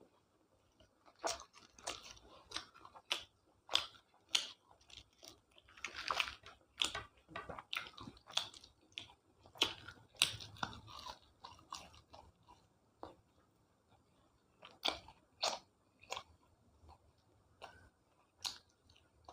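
Close-miked eating sounds: a person chewing and biting food, with irregular sharp crunches and wet mouth clicks and a few quieter pauses.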